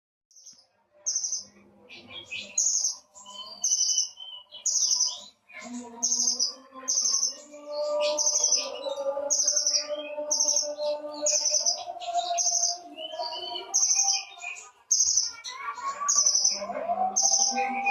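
A songbird repeating short, sharp high chirps about one and a half times a second. From about five seconds in, lower sustained tones are layered under the chirps.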